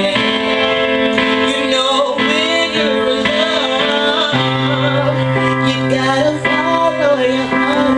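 Held chords on a 25-key keyboard, with a deeper bass note coming in about halfway through, under a woman singing drawn-out, wavering notes.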